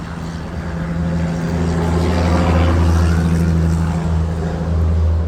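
Jet engine noise from a Boeing 737 MAX 8's CFM LEAP-1B turbofans, swelling to a peak about halfway through and easing off towards the end over a steady low hum.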